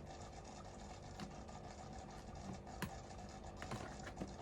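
Faint scattered clicks and taps, a few times, over a low steady hum.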